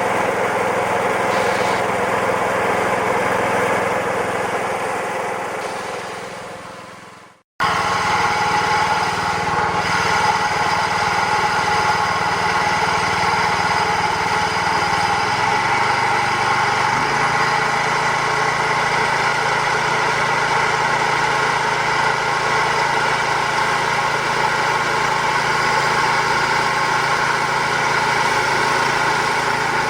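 Small gasoline engine of a homemade bandsaw sawmill running steadily. The sound fades away about six seconds in, breaks off, then comes back suddenly and runs on, its low note shifting about halfway through.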